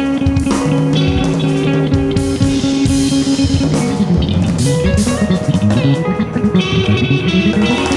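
Funk rock band playing live: electric guitar chords over a moving bass guitar line and a drum kit groove.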